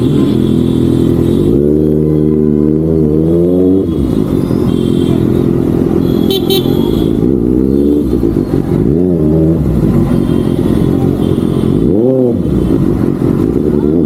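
Kawasaki ZX-6R's inline-four engine on the move: a hard pull rising in pitch about two seconds in, then two quick throttle blips that rise and fall later on.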